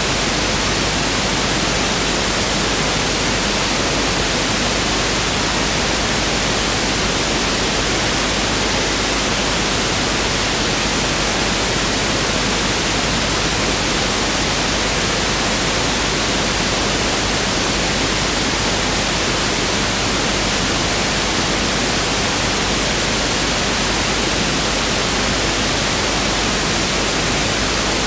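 Pink noise test signal (1/f noise): a steady, even hiss that does not change.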